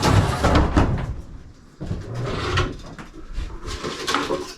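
Wooden beehive boxes and planks being handled: a run of knocks and scrapes of wood on wood.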